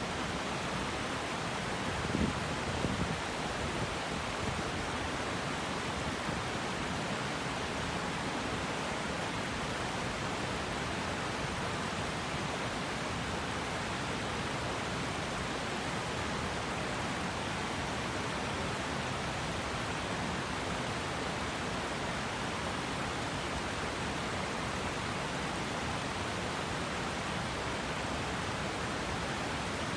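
River water rushing steadily over rocks, an even, unbroken wash of sound. A few soft low bumps come between about two and five seconds in.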